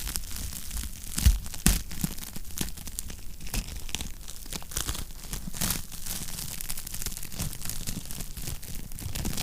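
Wood fire crackling in a fireplace: a steady run of small pops and snaps over a low rumble, with two louder pops a little over a second in.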